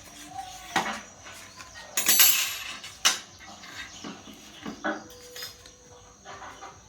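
Hard objects clinking and knocking in a series of separate sharp hits, with a louder rattling burst about two seconds in.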